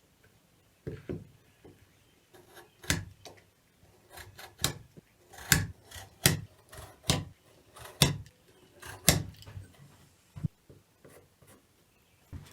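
A knife blade scoring layout lines into a wooden 1x2 board, about a dozen short scraping strokes, roughly one a second.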